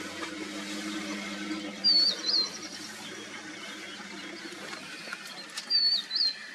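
A bird repeating a short whistled phrase, a quick downward slur then a rising note, twice about four seconds apart, each followed by a fainter high trill.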